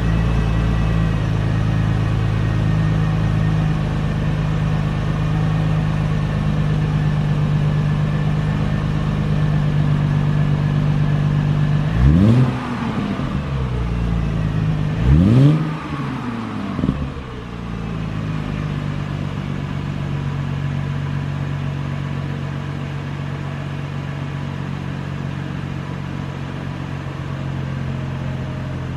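2006 Mercedes-Benz SLK350's 3.5-litre V6 idling steadily, blipped twice with the throttle about a third and about halfway through. Each rev climbs quickly and falls straight back, and the engine then settles back to a steady idle.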